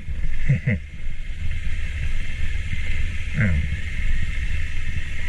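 A vehicle creeping down a steep, rough dirt track in low gear, with a steady low rumble of engine and tyres. A few short squeaks or creaks come about half a second in and again past the middle.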